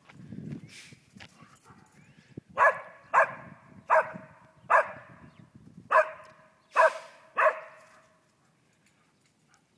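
A dog barking at birds: seven loud barks in quick succession, each under a second apart, with a short gap in the middle, then it stops. Soft rustling and knocks of movement come before the barks.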